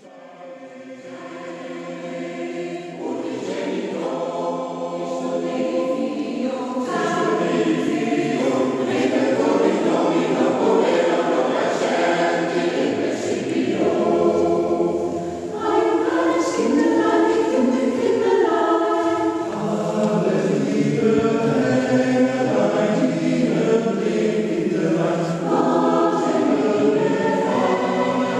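Choir singing, many voices holding sustained chords. It swells in from silence over the first several seconds, then carries on at a steady strength.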